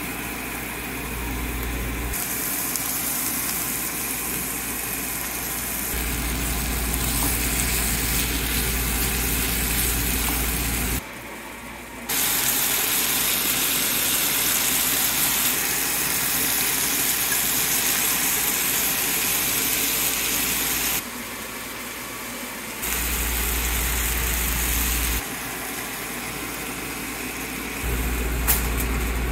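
Chicken kofta, onion and spice paste frying in oil in a pan: a steady sizzle that jumps abruptly in level several times. A low hum runs under some stretches and drops out in others.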